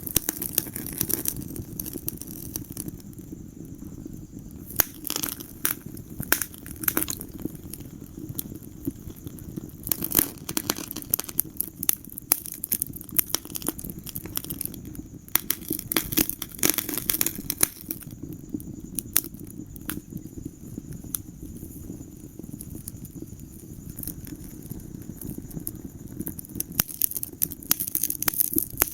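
Wood fire crackling in a fireplace: irregular sharp pops and snaps over a steady low rumble of the flames, with busier clusters of crackles now and then.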